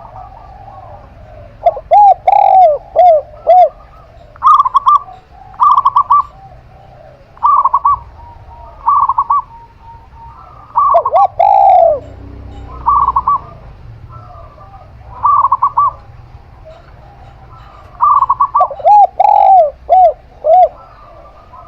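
A zebra dove and a spotted dove cooing in turn: phrases of short, repeated coo notes, some low and arched, some higher and faintly trilled, coming in groups every second or two.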